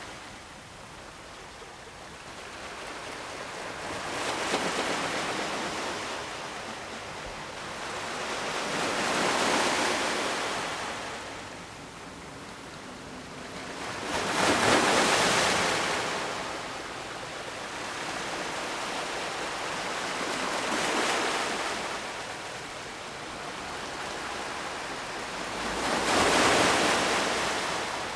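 Ocean waves breaking on the shore, heard as a hiss that swells and dies away five times, about every five to six seconds; the surges about halfway through and near the end are the loudest.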